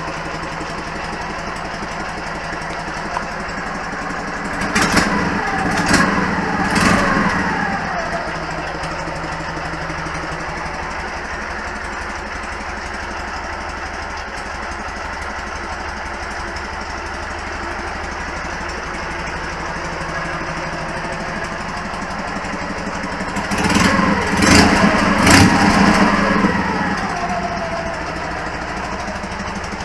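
K-750 motorcycle's side-valve boxer twin idling steadily, revved in two spells of about three quick throttle blips each, a few seconds in and again past twenty seconds, the revs dropping back after each blip. The engine is running after the left cylinder head was milled to clear the intake valve that had been striking it, and the owner takes the result as a cure for the ringing knock.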